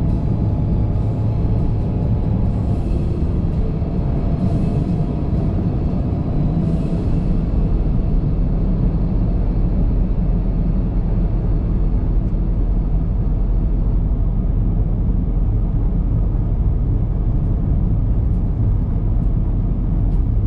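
Car driving with a steady low rumble of tyres and engine, with a few brief hissing swells in the first several seconds.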